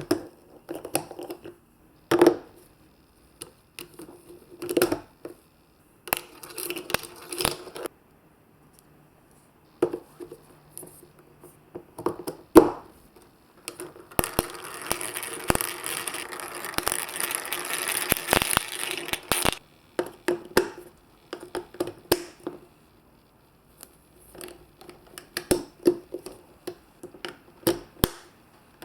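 Marbles rolling and clacking through a plastic building-block marble-run course: scattered sharp clicks and quick rattling runs of hits. About halfway through comes a steady rushing sound lasting about five seconds.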